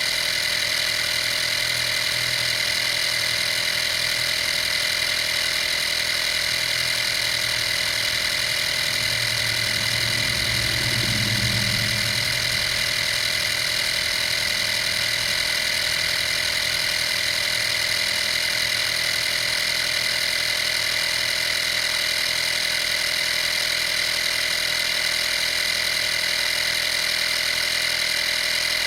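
Vaper 12-volt compressor (model 55203) running steadily with an even, high-pitched motor whine; a lower hum swells briefly about ten seconds in.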